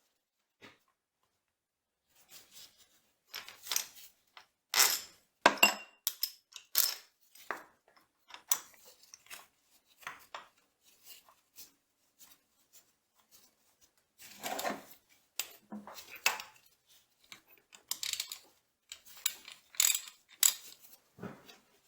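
Irregular metal clinks and knocks of hand tools against steel machine parts, in scattered clusters with pauses between, as a milling machine's gearbox shaft is worked loose.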